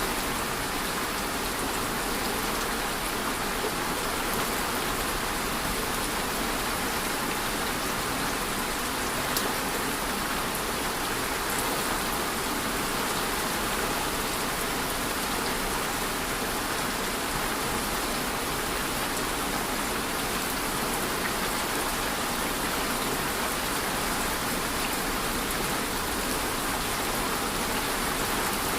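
Steady rain falling and pattering on a surface, an even hiss with individual drops, one slightly louder drop hit about nine seconds in.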